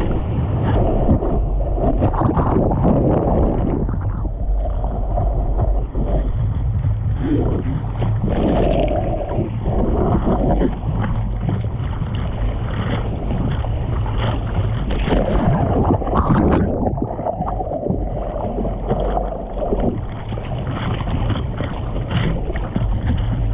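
Wind buffeting the microphone and water rushing and splashing, a steady heavy rumble with irregular surges, as from a camera out on the water while surfing.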